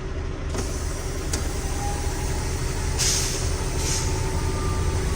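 Kenworth T800 truck's Cummins X15 diesel engine running with a steady low rumble, with two short hisses of air from the truck's air system about three and four seconds in.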